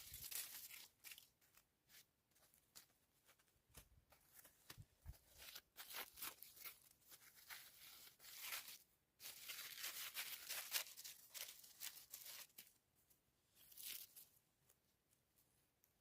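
Irregular, close rustling and tearing sounds with scattered sharp cracks, coming in spells several seconds long: something being handled, torn or broken by hand.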